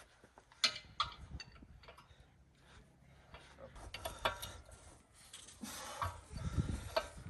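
Scattered metallic clinks and knocks of a wrench and loose metal parts being handled on machinery, with a short scraping rustle and a few dull thumps near the end.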